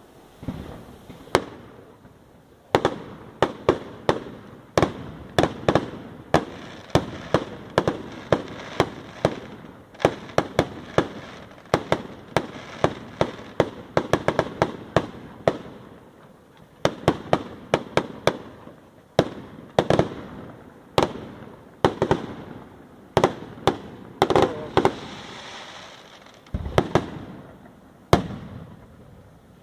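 Fireworks going off in a long, dense run of sharp bangs and pops, often a few each second, with short stretches of crackling between them.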